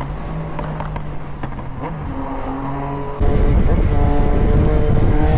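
Motorcycle engine running steadily. About three seconds in, the sound turns abruptly much louder with a rushing noise, and the engine note climbs slowly as the bike pulls away.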